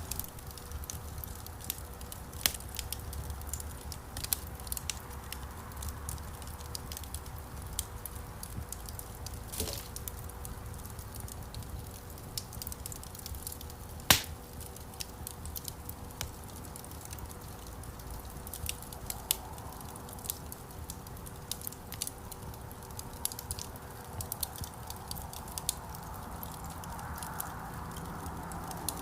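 Wood fire crackling in a fireplace: irregular sharp pops and snaps of burning logs over a low steady rumble of flame, with one louder pop about halfway through.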